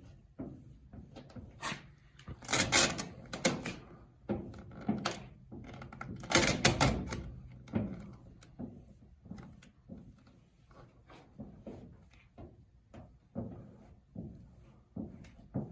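Irregular knocks, clicks and handling noises of hands-on work in a shop, with two louder, rustling stretches of a few seconds each.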